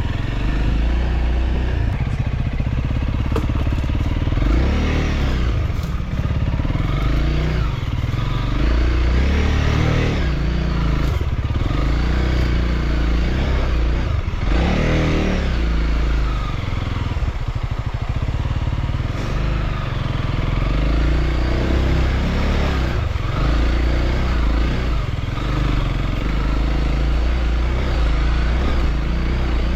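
Motorcycle engine running while riding, its pitch rising and falling every few seconds as the throttle is opened and closed, over a steady heavy low rumble.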